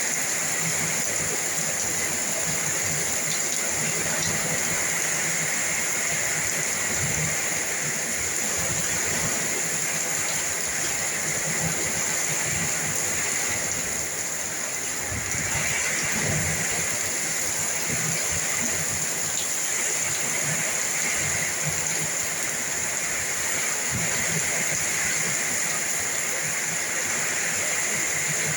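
Heavy rain pouring down steadily in strong wind, with irregular gusty rumbling underneath.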